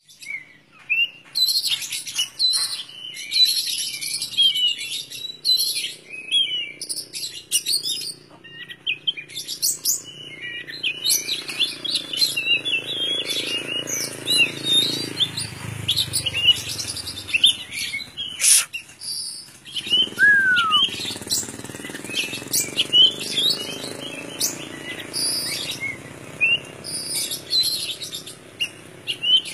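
Oriental magpie-robin (kacer) singing without pause: a rapid, varied stream of chirps, trills and whistles.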